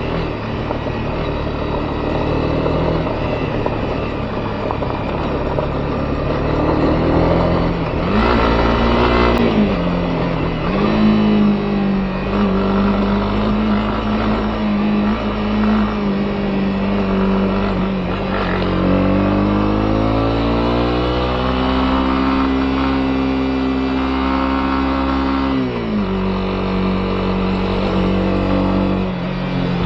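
Honda CB250R's single-cylinder engine running under way. Its pitch rises about eight seconds in, climbs steadily again around twenty seconds in, then drops suddenly about four seconds before the end.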